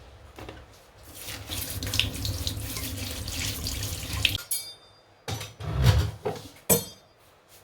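Water running from a tap into a sink, shut off about four seconds in, followed by a few knocks and thuds of things being handled.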